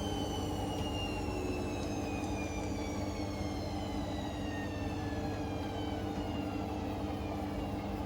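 Hoover Link washing machine's drum slowing down from a 1400 rpm spin, the motor's whine falling steadily in pitch over a steady low hum.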